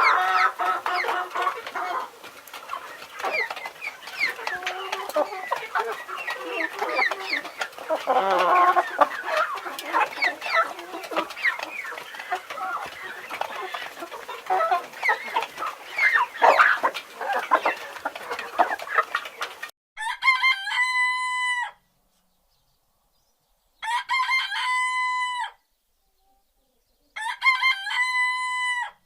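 A flock of chickens clucking over one another for about twenty seconds, then a rooster crowing three times, each crow about two seconds long with a pause between.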